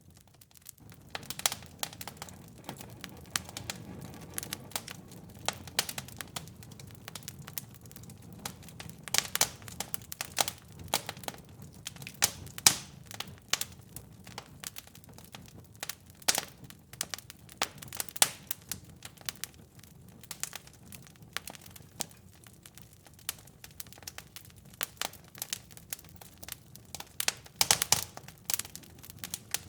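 Fireplace fire crackling and popping, with irregular sharp snaps over a low steady rumble.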